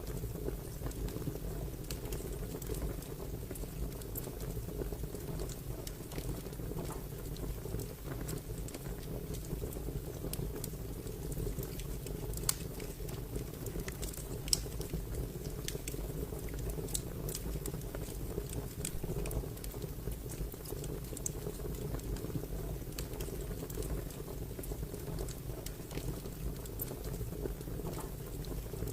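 Fire crackling: a steady low rumble with scattered small snaps and pops, two of them louder near the middle.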